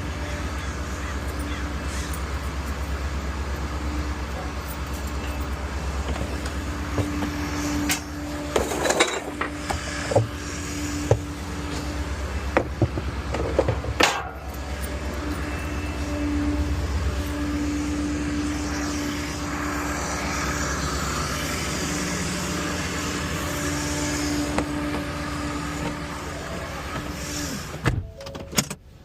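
Small rear-loader garbage truck running steadily, a low engine rumble with a steady hum over it, with a run of knocks and clatter for several seconds in the middle.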